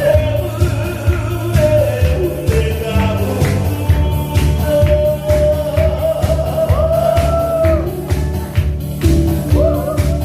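A singer performing over an amplified backing track with a steady bass beat; the voice holds long notes.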